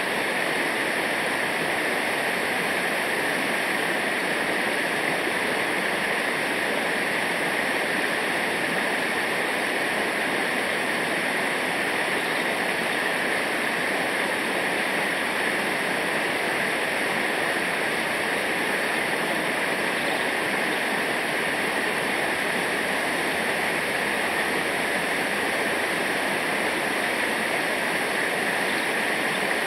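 Rushing river water running steadily over rapids, a continuous even rush with no breaks.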